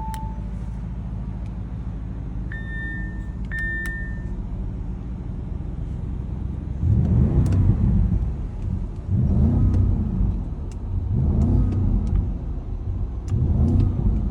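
Audi RS Q8 Performance's twin-turbo 4.0-litre V8 exhaust idling with a low rumble, then revved four times about two seconds apart, each rev rising and dropping back to idle.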